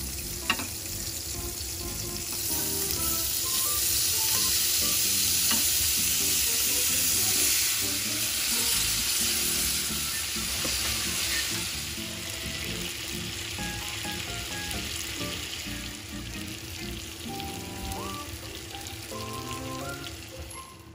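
Squid rings, onions and sauce frying loudly in hot butter on a sizzling plate while being stirred; the sizzle swells about two seconds in and eases off over the second half. A single sharp knock about half a second in, and light background music.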